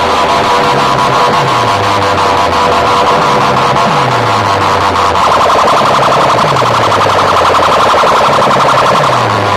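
Electronic siren- and alarm-like sound effect played loudly through a large loudspeaker sound system: steady high tones over a deep falling bass sweep that repeats about once a second. About five seconds in, a fast warbling tone like a car alarm joins in.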